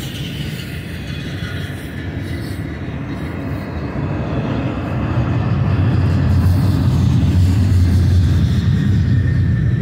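BNSF double-stack intermodal well cars rolling past: a steady low rumble of steel wheels on rail, growing louder from about four seconds in.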